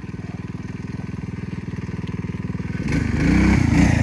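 Small mini bike engine idling with a rapid, even putter, then revving up louder and dropping back about three seconds in.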